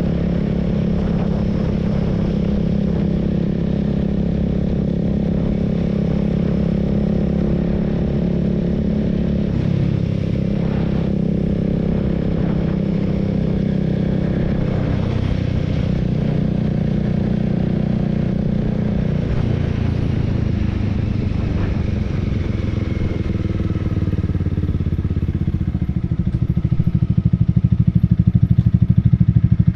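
Honda Rebel 300's single-cylinder engine running as the motorcycle rides along, its note shifting a couple of times. Near the end it grows louder as the bike accelerates.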